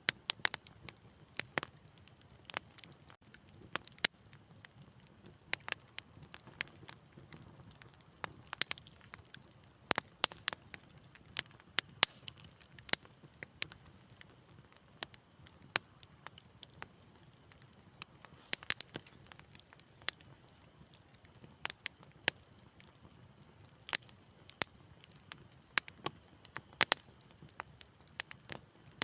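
Wood fire in a fireplace crackling: irregular sharp pops and snaps, several a second, over a faint low rumble of flame.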